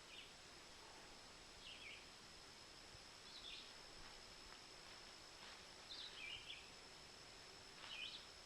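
Faint songbird calls: short chirps every second or two, over a quiet outdoor hiss with a thin steady high tone behind.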